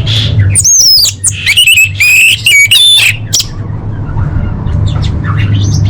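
Female orange-headed thrush (anis merah) calling to a male: a quick run of high, bending whistled notes for about three seconds, then a few fainter notes, over a steady low hum.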